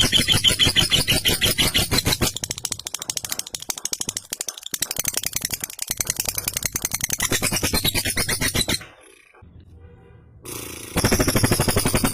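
Lovebird giving a long, rapid, rattling chatter (ngekek), breaking off briefly late on and starting up again loudly.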